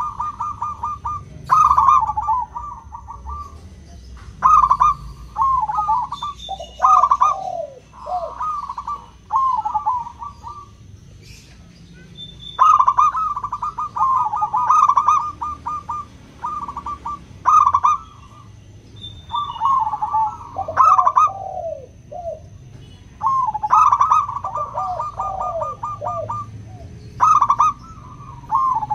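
Zebra dove in full song: about a dozen rapid, rolling cooing phrases, each a second or two long with short pauses between, some ending in lower falling notes.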